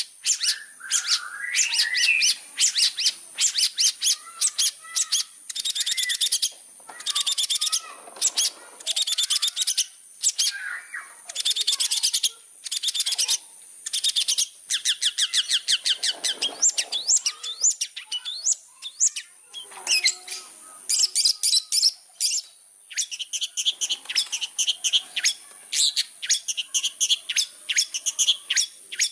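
Long-tailed shrike in full song: fast, dense runs of short repeated notes and trills in bursts of a few seconds, with brief pauses between them, over a steady high hiss.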